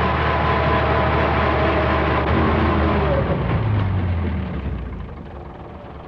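A truck engine running steadily. Its note shifts about two seconds in, then dies away over the last second or two.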